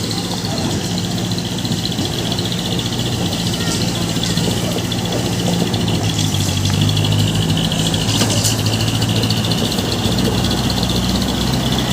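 Heavy diesel truck engine running steadily at low revs, its pitch shifting only slightly.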